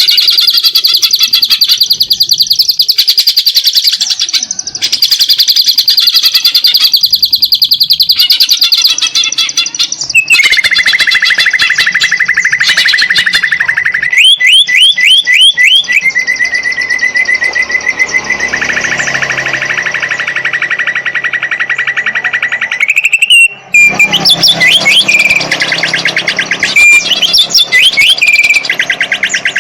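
A green leafbird (cucak ijo) singing loudly and without pause, in fast repeated chirps and trills. About ten seconds in it switches to a long steady buzzing trill, broken by quick runs of rising notes. The song is the bird's mimicry-filled 'isian' of canary and house sparrow phrases.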